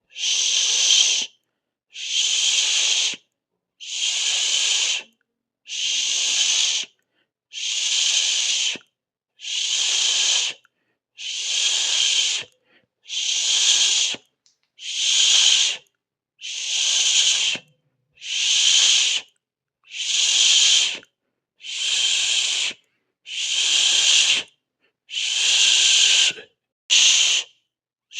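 A person hissing through the mouth, a long 'shh'-like hiss of about a second repeated steadily roughly every two seconds, about sixteen times, with brief silences between.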